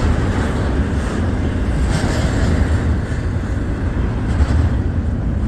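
Norfolk Southern mixed freight train rolling past at speed: a steady, loud rumble of freight cars' wheels on the rails.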